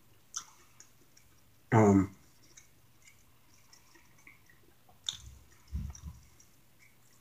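Mouth sounds of a person eating: soft chewing and lip-smacking clicks. About two seconds in there is a short hummed 'mm' that falls in pitch, and a few low thuds come near the end.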